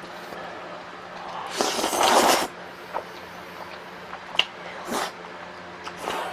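Close-miked eating sounds: one loud noisy burst lasting nearly a second, about a second and a half in, then a few short smacks and a sharp click of chewing.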